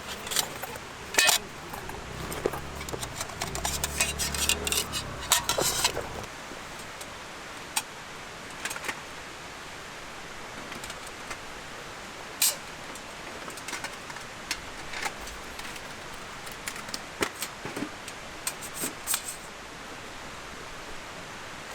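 Scattered small clinks and knocks, thickest in the first six seconds and sparse after, over a low hum that stops about six seconds in.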